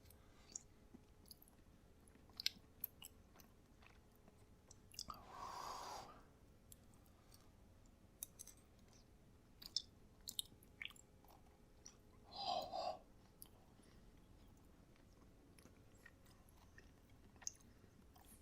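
A person chewing a hot mouthful of microwaved chicken pot pie close to the microphone, with faint wet mouth clicks. Two short, louder breathy puffs come through, about five seconds in and again about seven seconds later.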